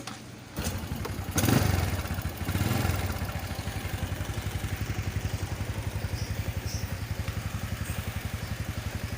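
Motorcycle engine kick-started, catching about half a second in, revved briefly twice, then settling into a steady idle on freshly changed oil.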